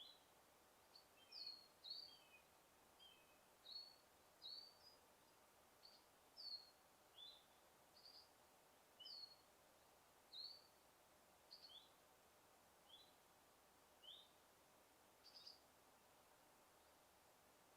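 Small birds chirping faintly: short, high, chirp-like calls repeated about once a second over a quiet, steady background hiss. The calls stop a couple of seconds before the end.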